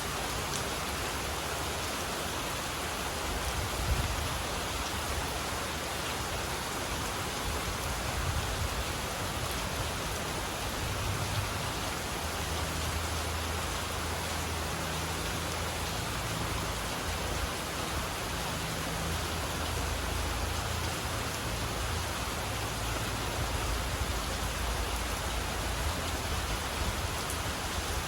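Steady rain falling under a mango tree, an even hiss of drops, with a low rumble that swells and fades underneath through the middle and later part.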